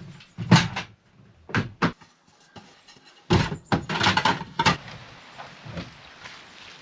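A series of sharp knocks and clatters in a small room: one about half a second in, two close together, then a quick cluster a little past the middle.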